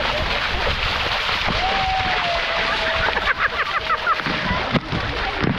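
Steady rush of water, with distant voices over it, one of them a long held call through the middle.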